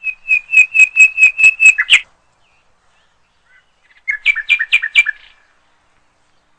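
A bird calling: a quick run of about nine repeated high notes, roughly four a second, for two seconds. After a pause comes a shorter run of about five slightly lower notes.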